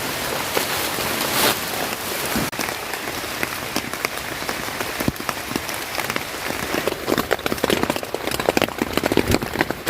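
Rain falling steadily, thinning after about six seconds into a patter of separate, distinct drops.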